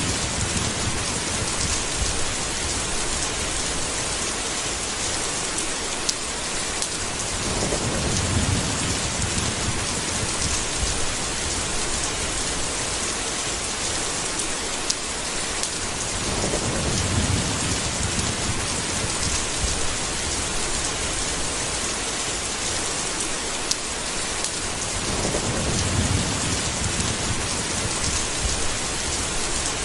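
Steady heavy rain with low thunder rumbling in slow swells, three times, about nine seconds apart.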